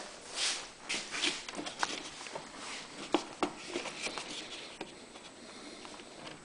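Handling sounds of a hose clamp being fitted onto a rubber fuel hose: irregular small metal clicks and taps with brief rustles, a few sharper clicks about two and three seconds in.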